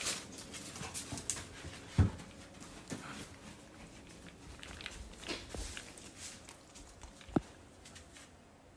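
A young puppy moving about, with scuffling, clicking and rustling, a loud thump about two seconds in and a sharp knock near the end.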